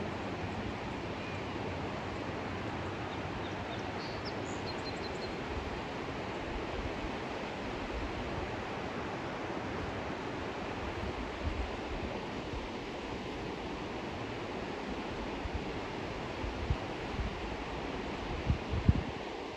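River water rushing steadily. A few faint high chirps come about four seconds in, and a few low thumps near the end.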